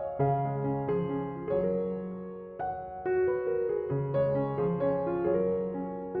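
Background piano music: a gentle melody of sustained notes with chords, new notes struck every second or so.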